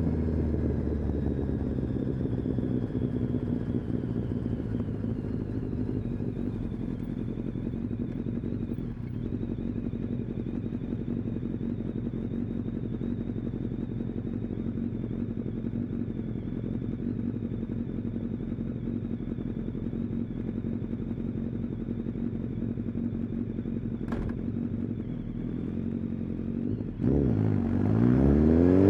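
Kawasaki ZX-10R inline-four engine and exhaust winding down in pitch off the throttle, then running at steady low revs for most of the stretch. Near the end it revs up and accelerates hard, the pitch climbing quickly.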